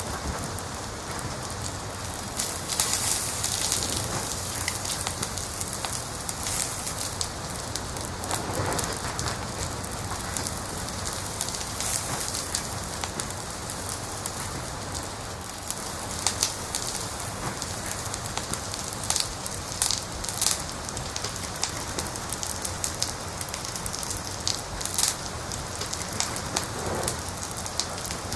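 Wood fire crackling: a steady hiss with scattered sharp pops and snaps every few seconds.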